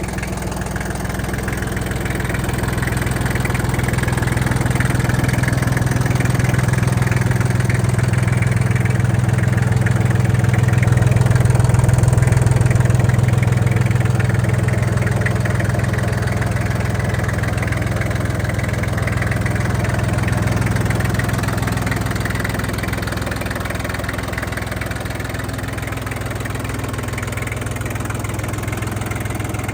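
ISEKI TL2301 compact tractor's three-cylinder diesel engine running steadily. It grows louder toward the middle and then eases off again.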